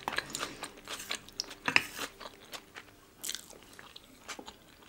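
Close-miked chewing of a mouthful of food, with irregular crisp crunches and wet mouth clicks; the sharpest crunch comes a little under two seconds in.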